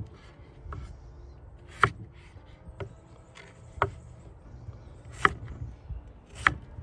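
Knife cutting potatoes in half on a cutting board: about four sharp knocks of the blade striking the board, a second or so apart, with a fainter one between the first two.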